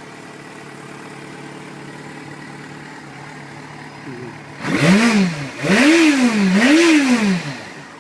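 2008 Yamaha FZ6's 600 cc inline-four engine idling steadily, then revved three times in quick succession a little over halfway through, each rev rising and falling back.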